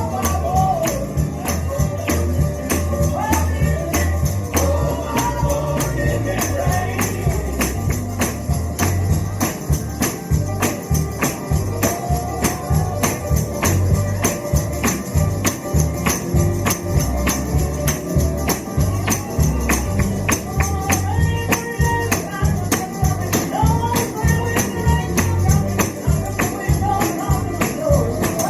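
Gospel music with a tambourine shaken to a steady fast beat over a strong bass, with singing.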